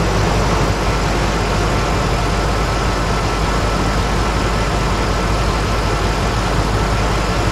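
Ford 5.4-litre V8 of a 2004 Lincoln Navigator idling steadily but rough with a cylinder misfire.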